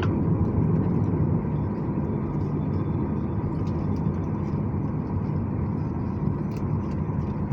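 Steady cabin noise inside a Boeing 737-800 on the ground just after landing: an even, low rumble from the engines at idle, with a faint steady whine.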